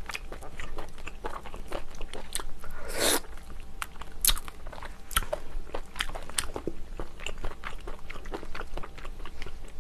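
Close-miked chewing of monkfish and seafood: many quick, wet mouth clicks and smacks, with one brief rushing sound about three seconds in.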